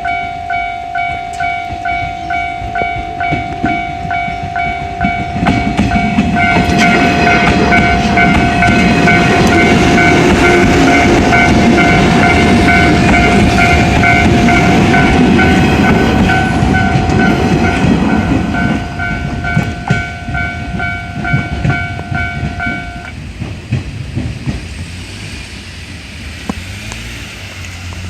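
A Japanese level-crossing warning bell ringing in a steady repeating ding, about one and a half dings a second, until it stops about 23 seconds in. Meanwhile a 103 series electric train passes, its rumble and wheel clatter growing about five seconds in and fading away after about nineteen seconds.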